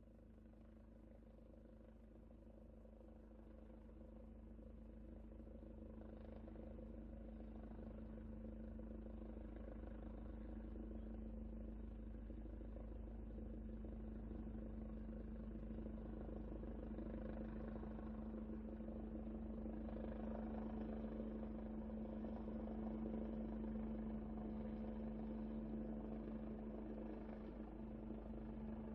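Truck engine running at a steady pitch, fading in from near silence and growing gradually louder over the first twenty seconds, then holding steady.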